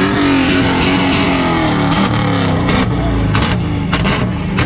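Car engine revved up and held at high revs, with several sharp cracks in the second half, then dropping back near the end.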